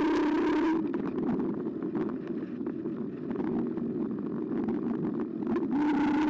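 Carbo X eBike's electric motor whining steadily under power, cutting out about a second in. Tyre and road rumble follow, with frequent small rattles and knocks from the bike. The motor whine starts again near the end, rising briefly in pitch as it comes back in.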